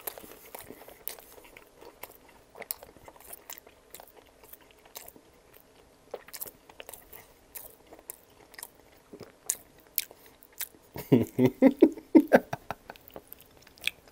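Close-miked biting and chewing of a toasted garlic-bread sandwich filled with breaded chicken, penne Alfredo and marinara: wet mouth clicks and small crunches, with a louder, denser run of mouth sounds about eleven seconds in.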